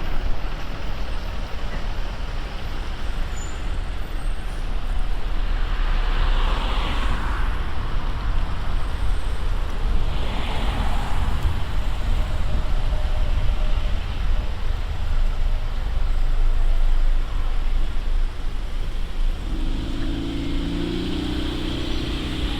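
Street traffic heard from a moving bicycle, over a steady low rumble of wind and road noise. Two vehicles swell past about six and ten seconds in, and a low humming tone from a larger engine comes in near the end.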